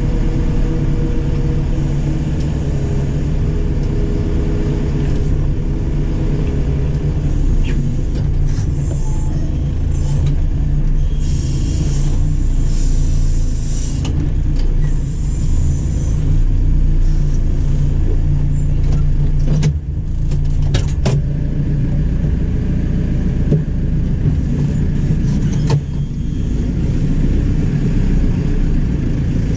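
Diesel engine of a JCB 4CX backhoe loader running steadily, with a few sharp clicks and knocks and a brief hiss about halfway through.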